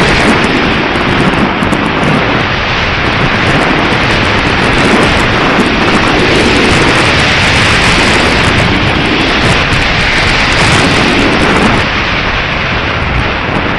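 Strong wind buffeting the microphone: a loud, continuous rumbling rush with slight gusting swells.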